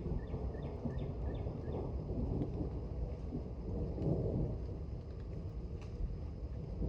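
Thunder rumbling low and long from a thunderstorm, swelling about two seconds in and again about four seconds in.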